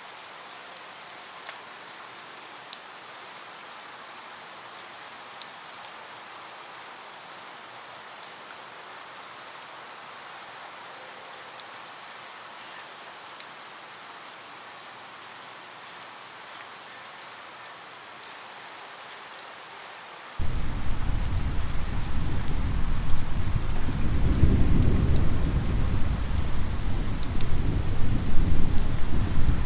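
Steady rain falling, with scattered sharp drop ticks. About two-thirds of the way through, a loud low rumble of thunder sets in abruptly and carries on to the end.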